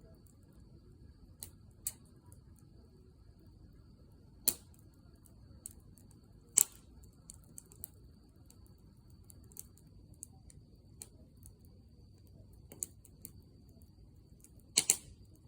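Wood campfire crackling: irregular sharp pops from the burning firewood over a low steady rush of the flames, with a loud double pop near the end.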